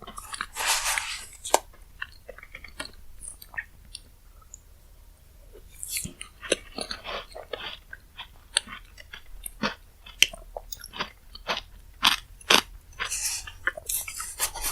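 Close-miked chewing and crunching of chocolate-cookie shaved-ice dessert, with many sharp wet mouth clicks and crackles. There is a short rush of hiss near the start and another near the end.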